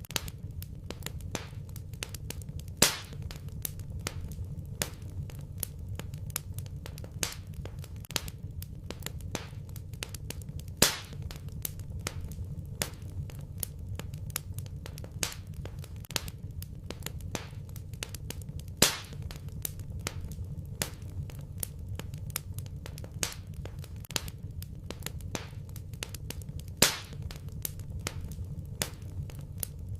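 Wood fire in a fireplace crackling, with many small snaps and a louder pop about every eight seconds, over a low steady rumble.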